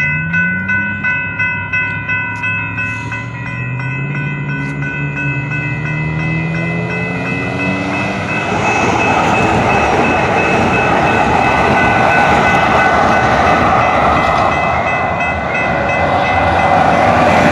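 Electric train accelerating: a motor whine climbs in pitch over the first several seconds, then the running noise of the train on the rails grows louder and steadier. A rapid rhythmic pulsing is heard in the first couple of seconds.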